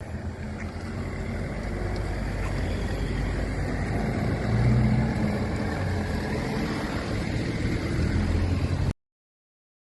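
Steady low rumble of a moving car's engine and road noise with wind, swelling about halfway through and cutting off abruptly near the end.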